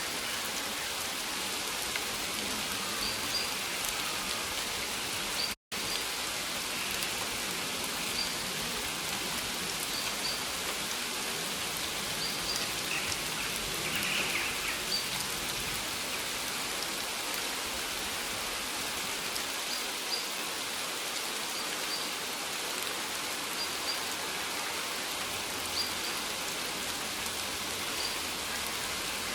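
Steady rain falling, an even hiss, with faint short high chirps recurring every couple of seconds. The sound cuts out completely for a split second about five and a half seconds in.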